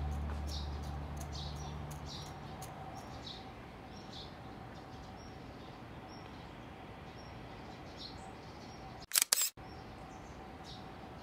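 Small birds chirping over and over in the trees, over a faint steady outdoor hum, while the tail of acoustic guitar music fades out in the first two seconds. About nine seconds in comes a brief, loud double clack, like handling noise on the recording device.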